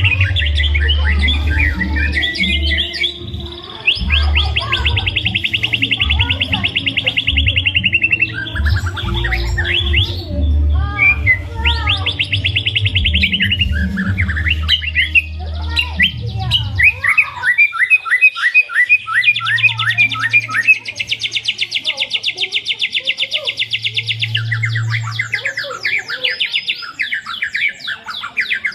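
White-rumped shama singing a long, varied song of fast rattling trills and whistled phrases. A low steady hum runs beneath it and stops a little past halfway.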